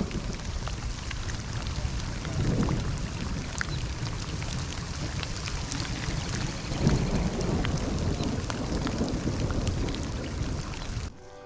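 Heavy rain pouring down, with many close drops ticking and two low rumbling swells, about two and a half and seven seconds in. The rain breaks off suddenly near the end, giving way to music.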